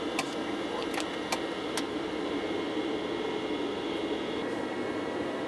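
Steady aircraft cabin noise, a constant rushing hum, with a few sharp clicks in the first two seconds.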